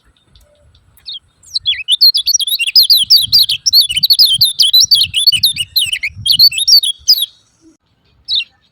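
Kecial kuning (lemon-bellied white-eye) giving its rapid 'ciak ciak' chattering call: a fast run of short, high, downward-sliding chirps for about six seconds, then a single chirp near the end.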